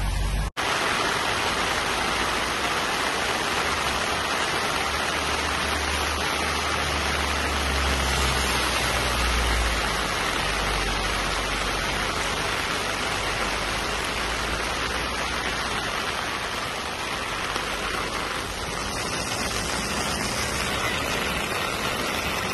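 Heavy thunderstorm rain pouring down steadily, a dense, even hiss of rain on grass and road. It cuts out for an instant about half a second in.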